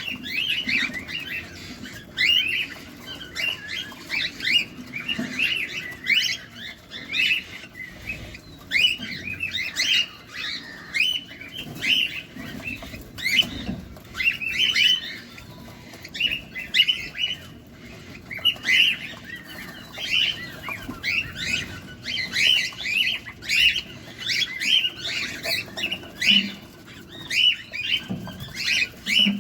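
Cockatiels chirping in a fast run of short, repeated calls, about two a second, going on without a break.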